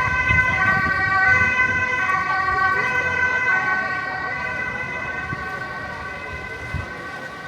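Emergency vehicle siren sounding several steady tones together that shift in pitch every so often, gradually fading as it moves away.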